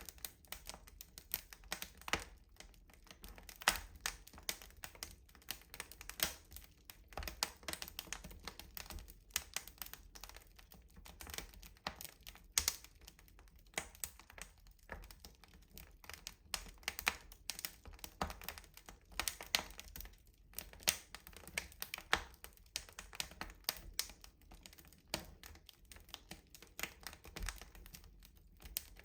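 Wood fire burning in a rustic stove, crackling with dense irregular small pops and occasional louder sharp cracks.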